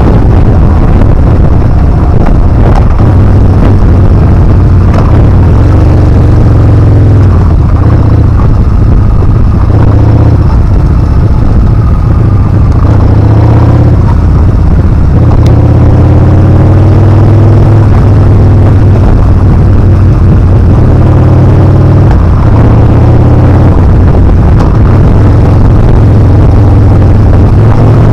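Yamaha Bolt's air-cooled V-twin engine running while riding, its pitch rising and falling several times with throttle and gear changes, under a loud, heavy rumble of wind on the microphone.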